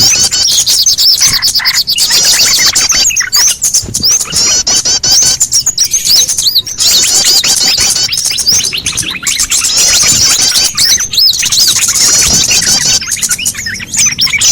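Bird-lure recording of many small birds chirping at once: a dense, loud tangle of rapid high chirps and short rising and falling notes, with brief gaps.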